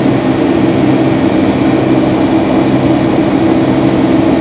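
Steady cabin noise of a Boeing 757-300 airliner in flight: the constant hum of the jet engines and rushing air, with a few steady low tones.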